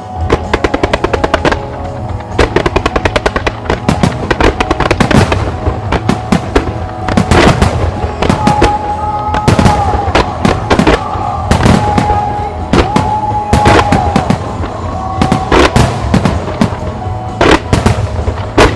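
Starmine fireworks firing rapidly: dense volleys of shell bursts and sharp reports, several a second, starting suddenly and continuing throughout, with music playing to accompany the show.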